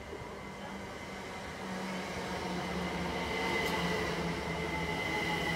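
A Great Western Railway multiple-unit train approaching and passing close by: a steady mechanical tone over the rumble of wheels on the rails, growing louder over the first three seconds or so and then holding.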